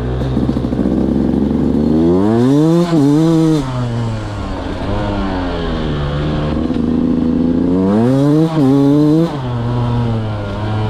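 2023 Beta 200 two-stroke single-cylinder motorcycle engine revving up and falling back twice. Each climb has a short dip in pitch near its top before easing off.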